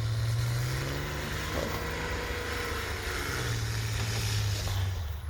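A vehicle engine running with a steady low hum. Over it, from about half a second to three and a half seconds in, an unexplained whine of several pitched tones bends up and down before fading out.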